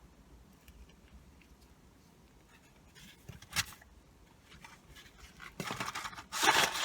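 Rustling and scraping from handling a McDonald's meal and its paper packaging: a short burst about three and a half seconds in, then louder rustling near the end.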